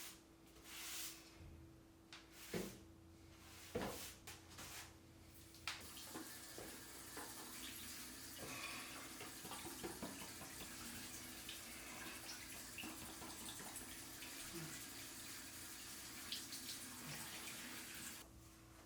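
A few clicks and knocks, then water running steadily from about six seconds in, stopping abruptly shortly before the end. A faint steady hum underlies it.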